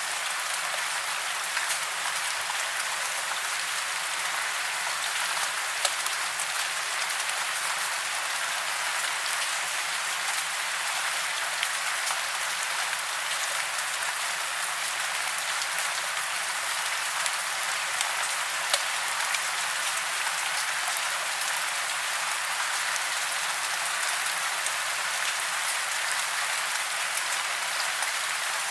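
Steady rain falling in a forest: an even hiss with scattered sharper ticks of single drops.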